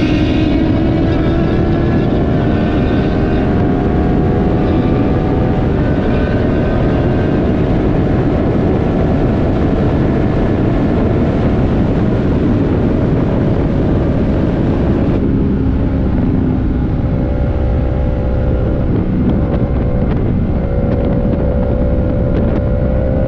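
Motorcycle engine running under way with heavy wind rush on the microphone. The engine note climbs slowly, changes about two-thirds of the way through and climbs again near the end.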